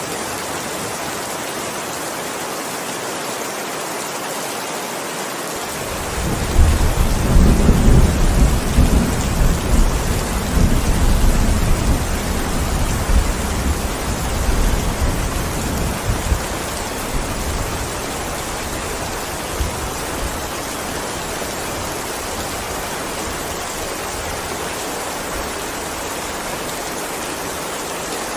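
Steady heavy rain falling. About six seconds in, a roll of thunder starts suddenly, rumbles loudest for several seconds, then fades away by about eighteen seconds in, leaving the rain alone.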